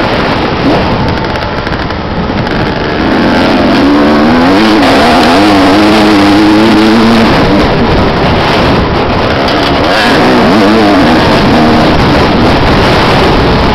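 Motocross dirt bike engines running loud, the pitch rising and falling again and again with throttle and gear changes.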